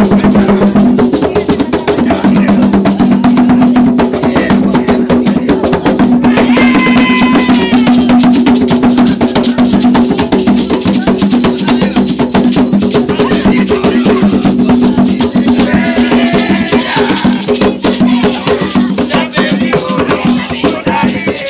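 Umbanda ritual music: rattles shaken in a fast, dense rhythm over a steady held low drone, with voices breaking in now and then.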